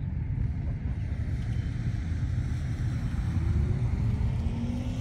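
Car engine accelerating in the distance, rising in pitch over the last couple of seconds, over a steady low rumble of wind on the microphone.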